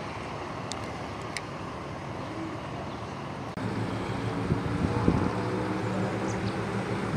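Steady outdoor rumble, then a bit over halfway through a motor comes in abruptly and runs steadily with a low hum.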